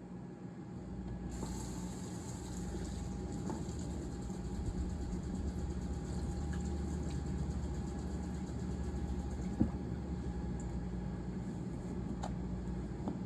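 A steady low mechanical hum, like a running motor, with a hiss that comes in about a second in and a few light clicks and knocks.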